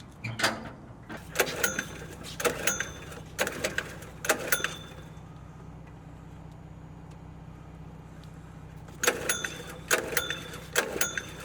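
Scrap metal clanking and ringing as pieces are handled: sharp metallic clanks in quick groups, a pause of a few seconds, then another run of clanks near the end, over a steady low hum.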